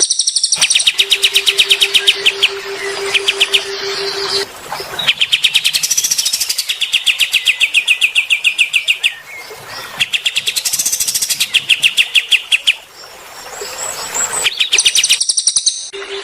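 Songbird singing in fast trills: rapid runs of short, evenly repeated high notes in phrases of one to two seconds, with brief pauses between. A steady low hum sits under the first few seconds.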